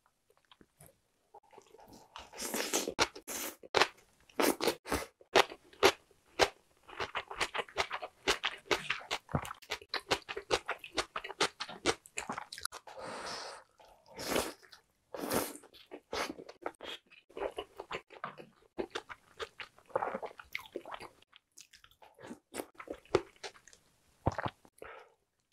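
Close-miked chewing and crunching, beginning about two seconds in, of mouthfuls of bibimbap with seasoned raw radish and of egg-battered jeon pancakes from a spicy stew.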